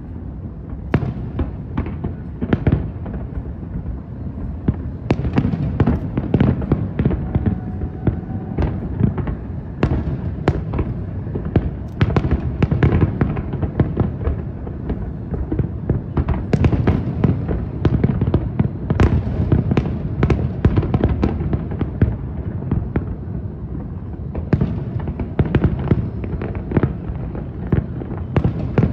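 Fireworks display bursting continuously: a dense run of sharp bangs and cracks, several a second, over a constant deep rumble of booming shells.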